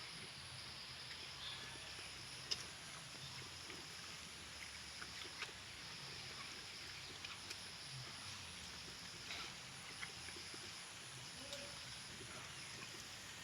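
Faint outdoor background: a steady high-pitched drone that comes and goes in long stretches, with scattered light clicks and taps, the sharpest about two and a half seconds in.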